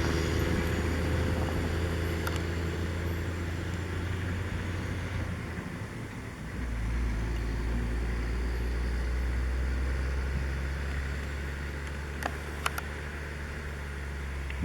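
Heavy diesel plow truck engine running under load with a steady low drone; about six seconds in the sound dips briefly and then settles into a lower, steady note. Two short clicks come near the end.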